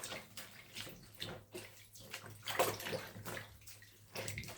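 Reusable cloth dog diaper being hand-washed with soap in a bathroom sink: irregular sloshing and swishing of water and wet fabric.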